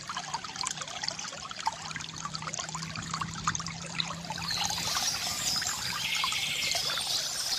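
Water from a bamboo fountain trickling and splashing steadily, a pouring stream broken by many small, quick splashes.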